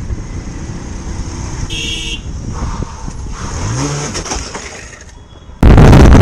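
Road traffic noise with a short car-horn toot about two seconds in and an engine revving up briefly around four seconds. About half a second before the end, loud wind buffeting on the microphone takes over abruptly.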